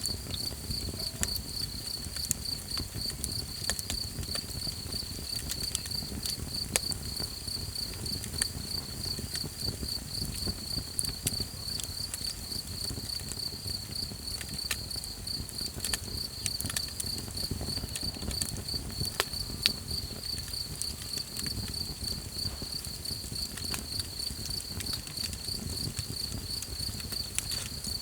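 Crickets chirping steadily in a fast, pulsing high-pitched trill, over a campfire crackling with scattered small pops.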